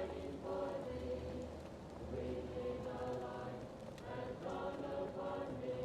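Choir singing long held notes in slow swells, muffled as if heard from another room. Faint fireplace crackling ticks over it.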